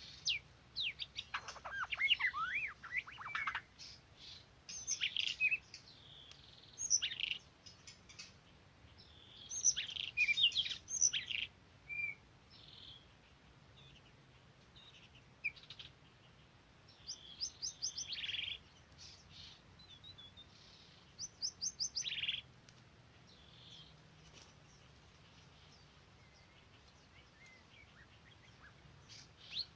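Songbird singing in bursts of varied whistles, sweeping notes and quick trilled phrases, with short gaps between phrases. It falls mostly quiet for several seconds in the last third, and the song starts again right at the end.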